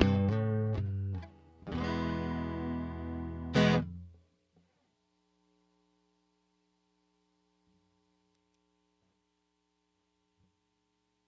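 Electric guitar played through a JHS 3 Series Flanger pedal: a few flanged chords, the last struck hard about three and a half seconds in and cut off soon after. Then near silence with only a faint hum from the rig.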